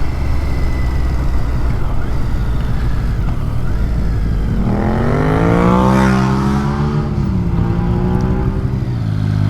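Motorcycle engine running under low rumbling road and wind noise; about four and a half seconds in it revs up, peaks a second and a half later and drops back, then begins to rise again near the end.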